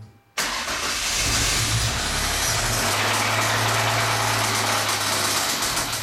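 A 1998 Ford SVT Contour's 2.5-litre V6 starts abruptly about a third of a second in and then runs steadily. The engine has bad rod bearings.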